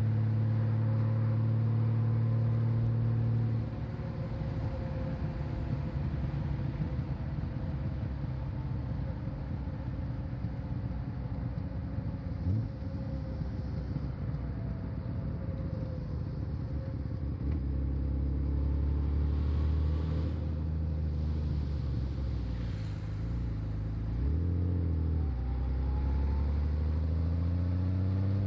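Honda Valkyrie's 1520 cc flat-six engine running under way, picked up by a small microphone on the rider's back. It runs steady and strong at first and eases off a few seconds in. It settles to a lower pitch through the middle and climbs in pitch near the end as the bike accelerates.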